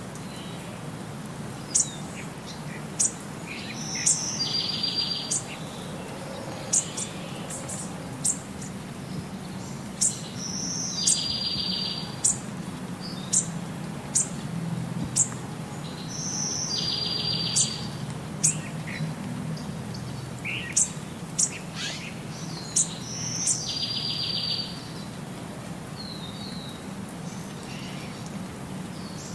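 Songbirds calling: a short trilled phrase returns about every six seconds, with quick high chirps in between.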